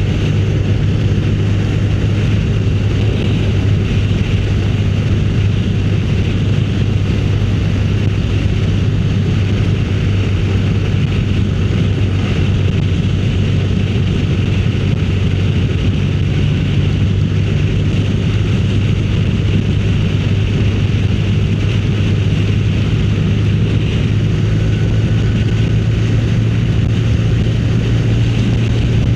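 Motorcycle engine running steadily at cruising speed, with wind rushing over the onboard microphone. The engine note rises slightly near the end.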